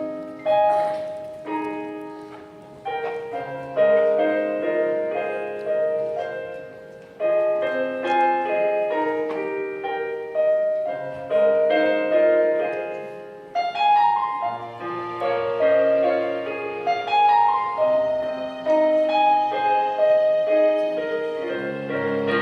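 Piano playing the introduction of a worship song: chords and melody notes struck and left to ring and fade, with no singing yet.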